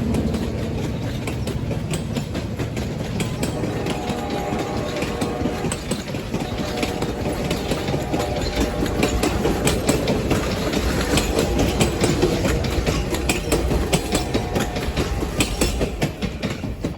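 Train going by on the rails: a steady low rumble with many sharp clicks of wheels over rail joints, which come thicker and faster in the second half.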